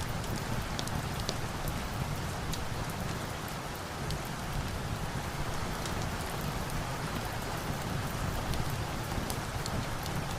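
Steady rain falling, an even hiss and patter, with scattered sharp ticks from individual drops or crackles.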